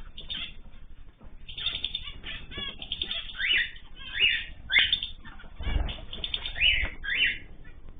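Small cage birds giving many short, repeated chirps, with wings fluttering.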